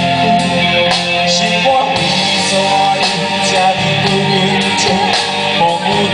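Live band playing a song, with guitar prominent over a steady beat.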